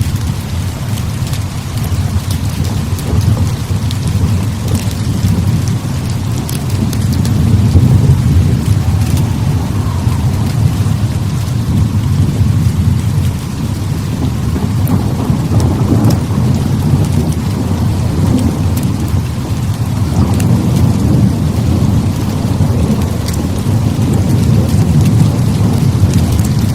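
Heavy rain pouring steadily under continuous low rolling thunder that swells and eases, loudest about eight seconds in. Scattered sharp little clicks sound over the top.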